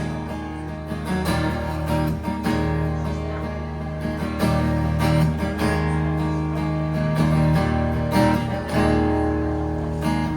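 Acoustic guitar strumming chords in an instrumental break of a live song, with no singing.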